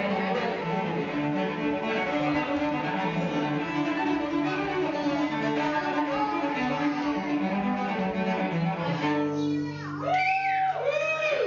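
String music: cello and violins playing layered sustained notes. About nine seconds in the texture thins and a few notes slide up and down.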